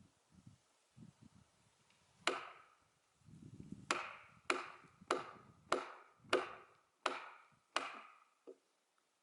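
A run of eight sharp blows with a hand tool into a large oak log being split, each with a short ringing decay. After a single blow, seven more follow at a steady pace of about one and a half a second, with a faint tap near the end.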